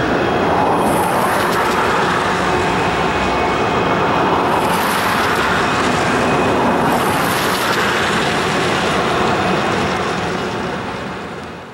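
Double-stack intermodal freight train rolling across a steel trestle, a steady rumble of wheels on rail, with cars passing on the road below a few times. The sound fades near the end.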